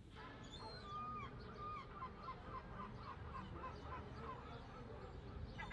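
Faint bird calls: a few whistled gliding notes, then a quick run of short repeated notes.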